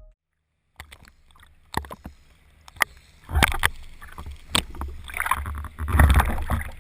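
Knocks and clunks on a small boat on the water, over a low rumble of wind on the microphone, with a louder stretch of knocking and splashy noise near the end.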